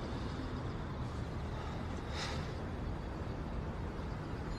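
Steady low background rumble with no speech, with a faint short hiss about two seconds in.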